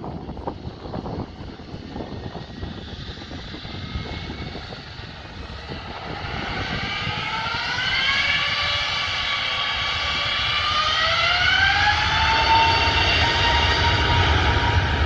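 Airbus A321neo's jet engines spooling up to takeoff thrust: several whining tones climb in pitch together from about six seconds in and level off near the end, the sound growing steadily louder over a low rumble.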